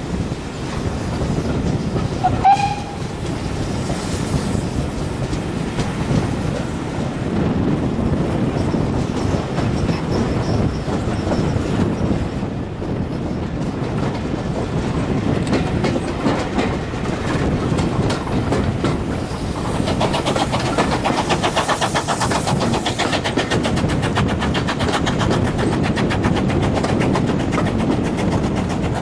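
Steam-hauled passenger coaches running along the line, heard from an open carriage window: a steady rumble and clatter of the wheels on the track. About two and a half seconds in there is a brief shrill tone and a sharp knock.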